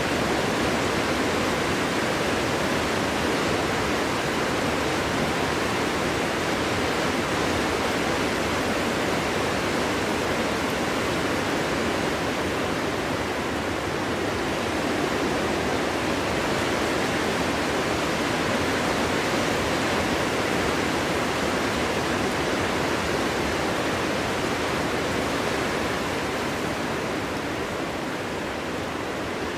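Steady winter wind blowing, a dense even rushing noise that eases slightly about halfway through and again near the end.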